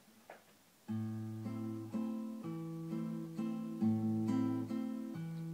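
Acoustic guitar playing the instrumental introduction to a song, picked and strummed chords that start about a second in after a brief quiet moment and change about every half second.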